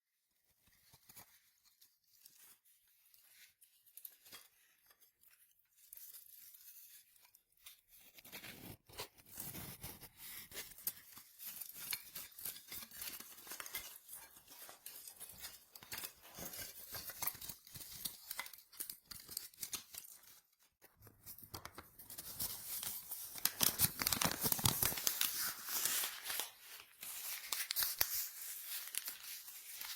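A fire being started in a fireplace: paper crumpling and tearing and kindling being handled. The rustling is faint and sparse at first, becomes dense and crackly about eight seconds in, pauses briefly about two-thirds through, then comes back louder.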